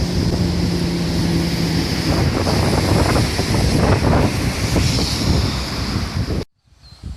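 Rush of a river in spate, swollen with typhoon floodwater, with wind buffeting the microphone. A steady low hum sounds over it for the first two seconds. About six and a half seconds in, the sound cuts off suddenly to a much quieter scene.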